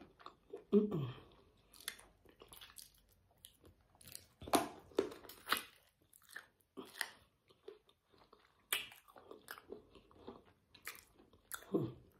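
Close-miked chewing and biting on spicy chicken feet: irregular crunching and crackling, in uneven clusters with short pauses between them.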